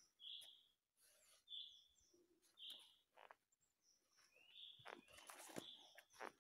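Faint, short, high bird calls repeated about once a second, with soft rustles of steps through dry leaf litter, the rustling a little louder near the end.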